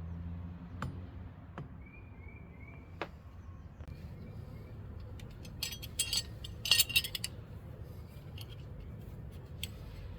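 Small metal tools and parts clinking and rattling, with scattered single clicks and a louder jangling burst about six to seven seconds in, as fuel-line fittings and hose clamps are handled.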